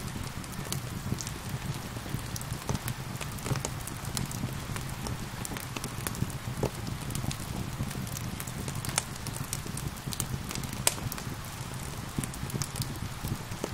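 Wood fire crackling with frequent sharp pops, over a steady low rumble of rain.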